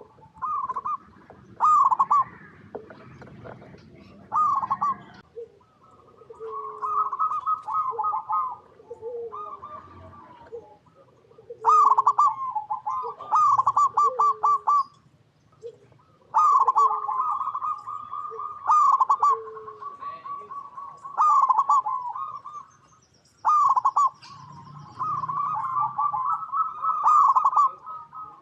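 Zebra dove (perkutut) singing: repeated phrases of quick, trilled coos with short pauses between them, and softer, lower coo notes in the gaps.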